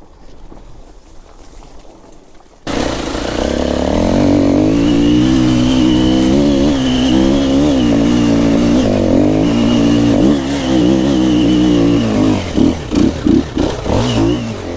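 Dirt bike engine starts loudly and suddenly about three seconds in and revs hard under load, its pitch rising and falling as the rider works the throttle up a loose hill. Near the end it gives several short, quick throttle blips.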